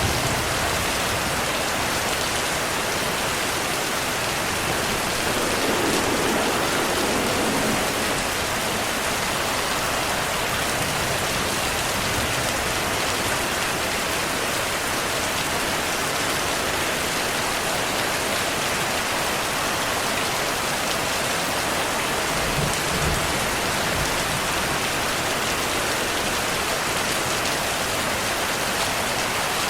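Steady heavy rain falling. A low rumble of distant thunder swells about six seconds in, and another comes around twenty-three seconds in.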